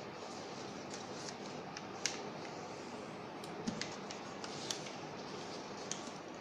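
A sheet of paper being handled and creased by hand: soft rustling with a few sharp crinkles, the sharpest about two seconds in, over a steady hiss.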